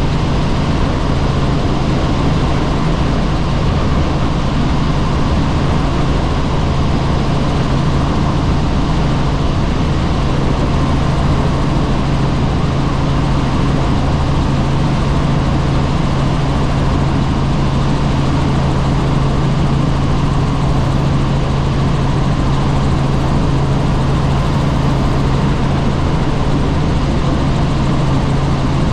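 Helicopter in flight heard from the cabin with the doors off: a steady loud drone with a strong low hum, under rushing wind noise.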